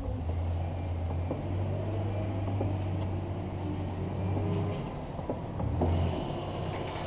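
2015 Lexus ES 300h's 2.5-litre four-cylinder engine running with a steady low hum, which drops out about four and a half seconds in and returns briefly near the end.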